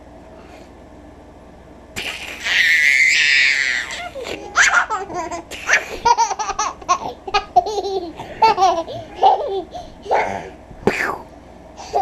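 A young child laughing: a loud, breathy shriek about two seconds in, then a run of short, high-pitched giggles.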